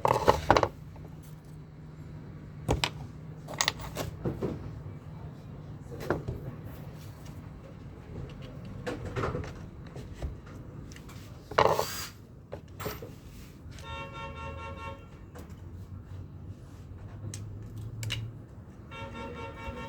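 Scattered clicks and knocks of small parts and tools being handled during a drill repair, over a steady low hum. Two short buzzing tones sound about two-thirds of the way through and again near the end.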